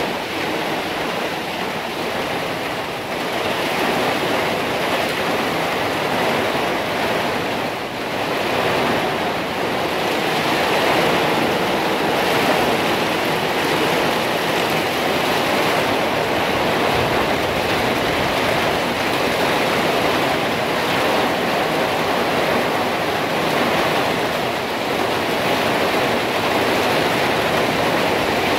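Rain falling steadily: a dense, even hiss of rain on the trees, grass and ground.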